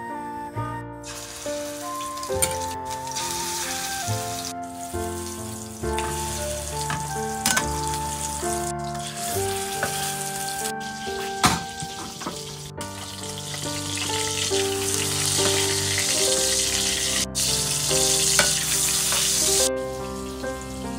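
Minced-pork patties sizzling in shallow oil in a frying pan, a steady hiss that cuts in and out abruptly several times and drops away near the end. Background music with melodic notes plays throughout.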